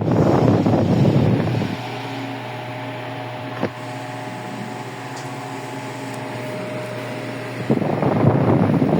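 Electric fan running, its air stream buffeting the microphone. After about two seconds the rush drops away to a steadier, quieter motor hum, with a single click partway through. The air rush returns near the end.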